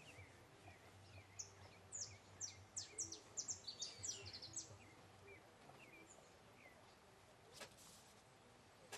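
A small bird singing a quick run of high, falling chirps lasting about three seconds, with fainter scattered chirps around it.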